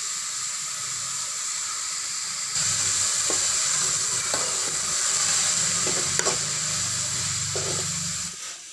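Chopped yam flower sizzling in hot oil in a kadai as it is tipped in and stirred with a spatula. The sizzle gets louder about two and a half seconds in, with a few short spatula strokes against the pan, and it dips just before the end.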